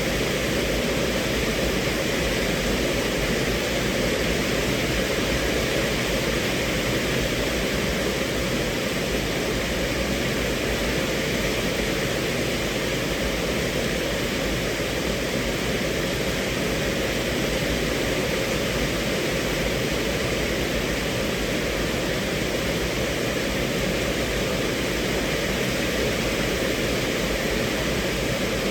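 Steady rain on a car's roof and windows, heard from inside the cabin as an even, unbroken hiss.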